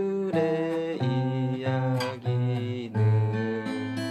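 Acoustic guitar playing the song's melody note by note over bass notes, each note picked and ringing into the next, with a chord left ringing near the end.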